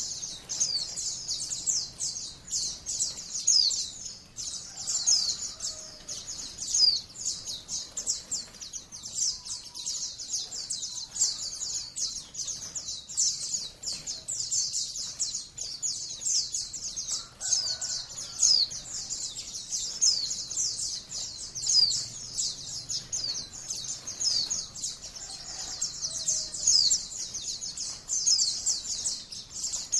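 White-eye (pleci, Zosterops) song: an unbroken stream of rapid, high, downward-slurred chirps and twitters.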